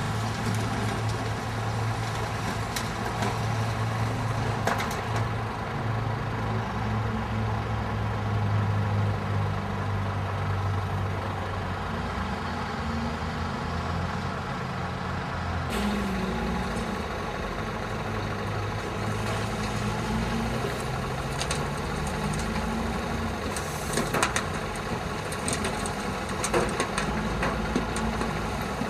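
Scania R124 420 tipper truck's diesel engine running steadily, its note changing abruptly about halfway through, with a few short sharp noises near the end.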